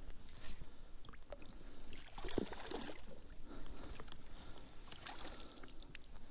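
Irregular clicks, knocks and rustles of close-up handling, thickest about two seconds in and again near five seconds, over a faint steady background hiss.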